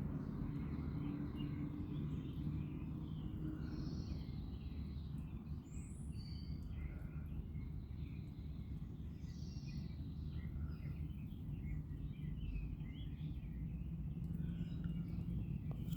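Outdoor ambience: a steady low rumble with faint, scattered bird chirps and calls.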